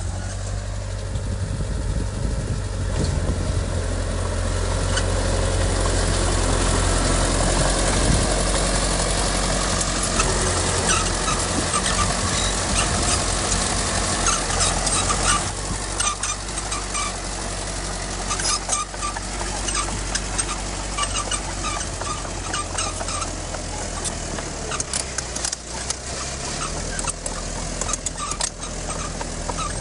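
Heavy diesel engine of earthmoving machinery running steadily, with scattered clanking and rattling over it. The whole sound is loudest in the first half and eases off a little after about fifteen seconds.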